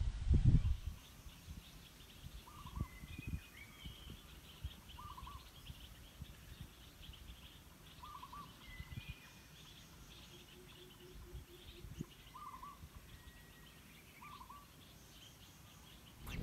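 Birds calling in the background: a short call repeats about five times at intervals of a few seconds, with fainter, higher chirps between. About ten seconds in there is a brief low run of quick notes. Low bumps of the microphone being handled come in the first second.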